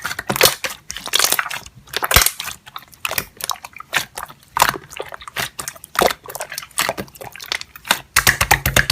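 Slime being pressed and squeezed by hand, giving a dense, irregular run of crackling clicks and pops.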